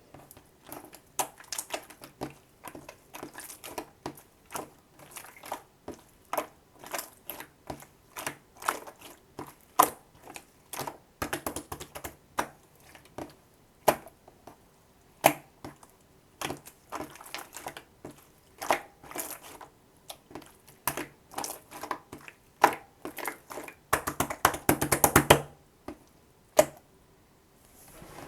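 Slime being squeezed and pressed by hand, making irregular sharp clicks and pops, with a quick run of crackling pops near the end.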